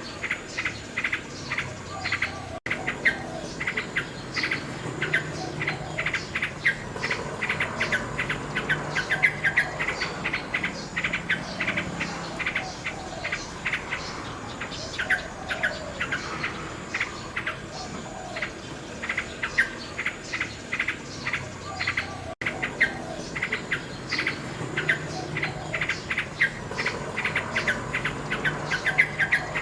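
Common nightingale singing: long runs of rapid, repeated chirping notes and trills. The sound cuts out for an instant twice.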